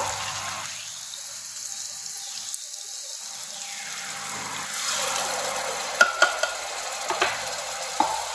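Onion and ground spice paste frying and sizzling in oil in a pressure cooker pan. In the last few seconds a spatula stirs the masala, knocking several times against the pot.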